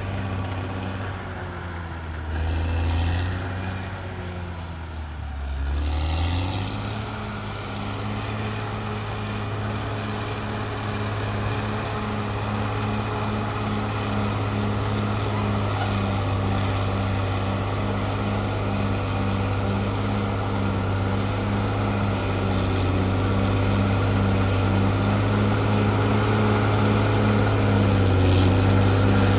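Caterpillar D6R XL bulldozer's diesel engine running steadily with a pulsing beat. About two seconds in, the engine note sags for several seconds and then picks back up; it dips briefly once more near the end.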